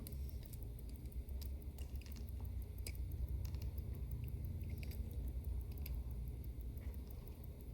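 Faint small ticks and taps of hand tools working on a wristwatch movement, with a steady low hum underneath.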